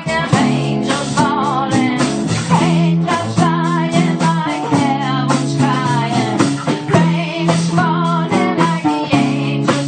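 Blues-rock band playing live at rehearsal: guitars over steady held low notes, with a wavering lead line that bends in pitch.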